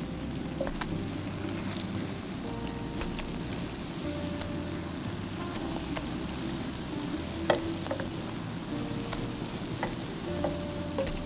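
Potato patties sizzling in shallow oil in a nonstick frying pan, a steady hiss with scattered crackles. A few sharp clicks come as a plastic spatula flips the patties, the loudest about seven and a half seconds in.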